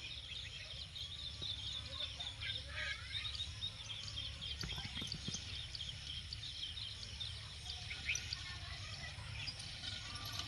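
Many small birds chirping and twittering in quick short calls throughout, over a steady low rumble.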